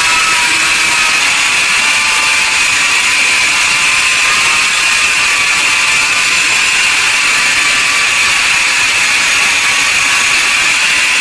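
A power tool running steadily, a loud, even, high-pitched noise.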